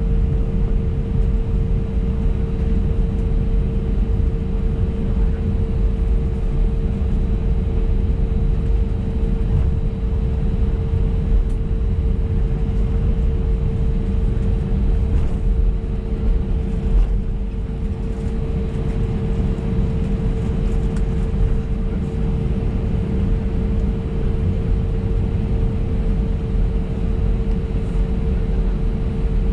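Airbus A320neo taxiing, heard from inside the passenger cabin: a steady low rumble of its CFM LEAP-1A engines at taxi power and the wheels rolling, with a steady hum held throughout.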